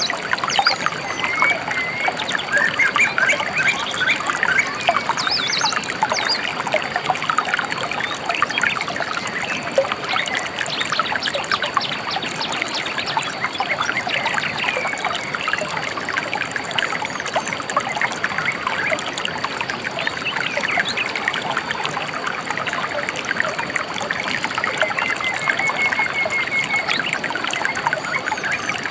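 Gentle river water trickling steadily, with a few bird chirps in the first few seconds and a short bird trill near the end.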